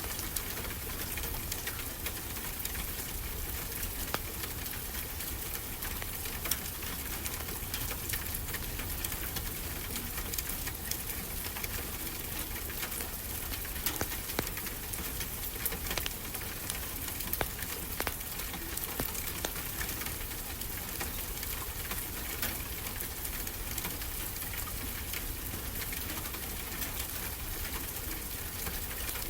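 Wood fire crackling with frequent small, sharp pops over a steady hiss, layered with a steady low rumble of ocean waves.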